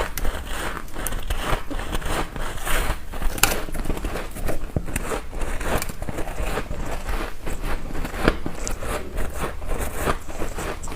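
Ice being bitten and crunched between the teeth close to the microphone: a dense, irregular run of sharp cracks and crunches.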